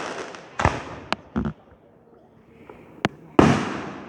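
Fireworks going off: about five sudden bangs and sharp cracks, the bigger ones trailing off in a fading echo, the loudest a little past three seconds in.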